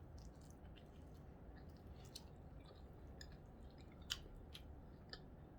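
A person chewing a corned beef sandwich close to the microphone: quiet, wet mouth smacks and small clicks at irregular moments, with one sharper click about four seconds in.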